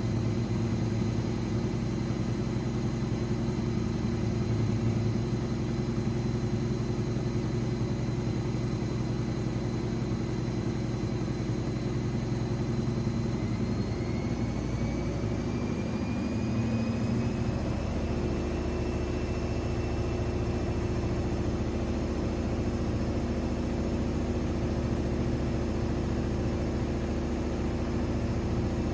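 AEG Lavamat 6610 washing machine spinning its drum: a steady motor hum and whine. About halfway through, the whine climbs in pitch and then holds as the drum speeds up.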